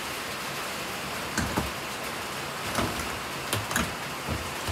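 Heavy rain falling as a steady hiss, with about half a dozen light knocks and clicks scattered through it.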